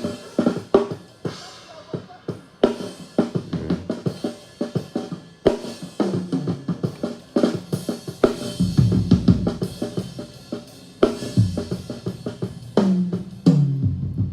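Multitrack recording of a drum kit played back during mixing: kick, snare, hi-hat and cymbals in a steady groove, with the drums running through EQ, compression and a gate. Some sustained low pitched notes join in during the second half.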